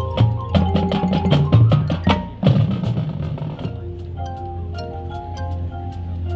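Marching band music. Sharp drum and percussion hits come first; about four seconds in, it drops to a softer repeating mallet-keyboard pattern, marimba or xylophone style, over a held low note.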